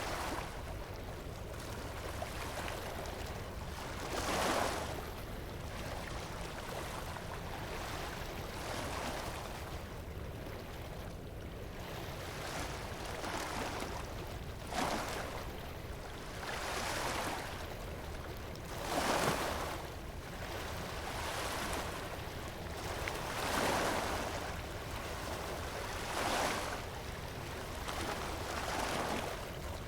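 Waves breaking on a beach: a swell of surf noise rises and falls every few seconds over a steady low rumble.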